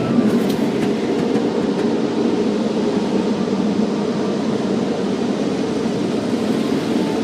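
Automatic car wash machinery running with a steady rumble, heard from inside the car, with a few faint clicks about half a second in.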